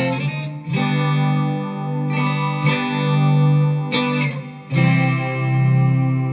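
Electric guitar played through a BOSS SY-200 synthesizer pedal: held synth-like notes rich in overtones, with a new note or chord struck every second or two and left to ring.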